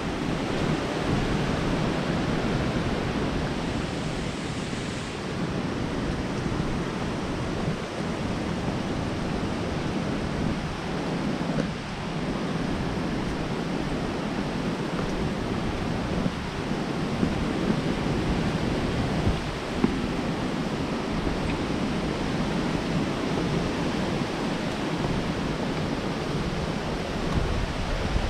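Waterfall: steady rushing noise of falling water, even throughout, with no breaks.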